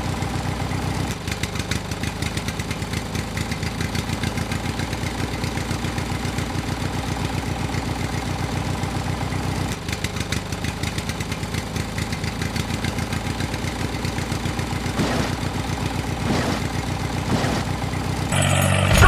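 Mini tractor's small engine running at a steady idle, with a rapid, even chugging pulse. Music comes in near the end.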